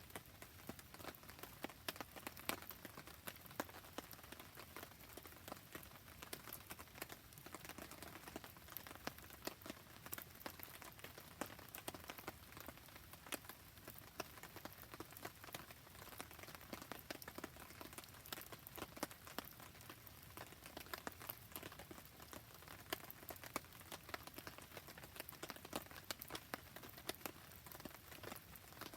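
Campfire crackling in steady rain: an even hiss of rain with many small, sharp crackles and drips scattered through it.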